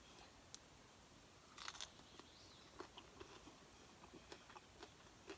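Faint bite into a crispy pizza crust about one and a half seconds in, followed by quiet chewing with small scattered crunches.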